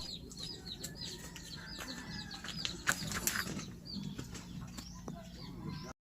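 Faint birds chirping: many short, high chirps at irregular intervals over a quiet low background, cutting off suddenly near the end.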